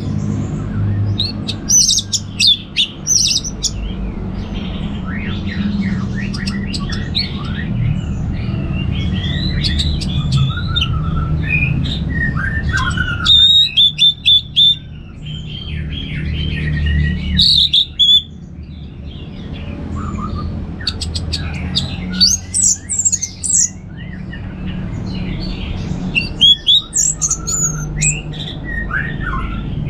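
Orange-headed thrush in full song, a long run of varied, rapid whistled phrases and chattering notes with only brief breaks, over a steady low hum.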